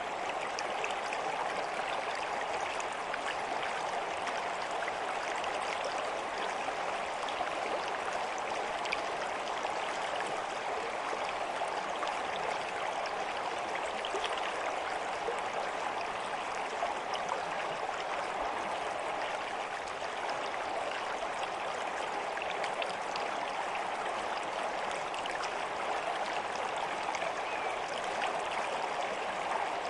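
Steady running water of a stream or brook, flowing continuously with small bubbling splashes.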